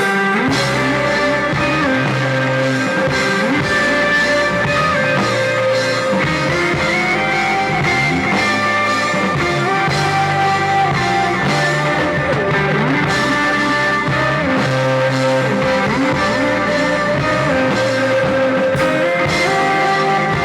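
Rock music with electric guitars over a moving bass line and a steady drum beat; the full band comes in right at the start, after a held guitar chord.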